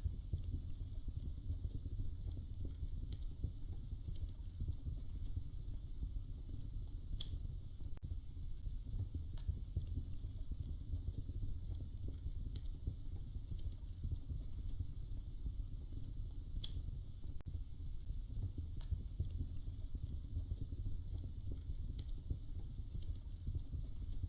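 Wood fire crackling in a fireplace: a steady low rumble of burning with sharp pops and snaps every second or two.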